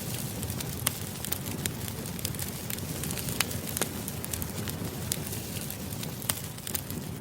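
Wood fire burning: a steady low rumble of flames with irregular sharp crackles and pops, several of them standing out loudly.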